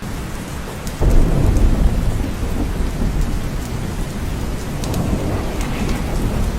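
Steady heavy rain with a roll of thunder that comes in suddenly about a second in and rumbles on low, slowly dying away, with occasional sharper drop splats.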